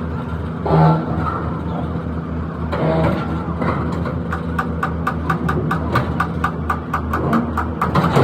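An engine idling with a steady low rumble. About halfway through, a regular sharp clicking, about four times a second, joins it.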